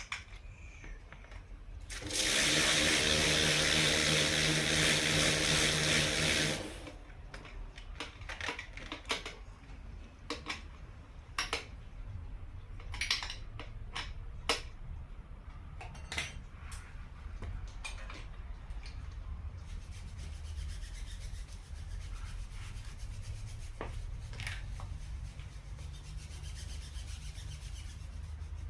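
A small motor-driven tool runs steadily for about four and a half seconds, then cuts off. Scattered clicks and knocks of metal tools follow, over a low steady hum.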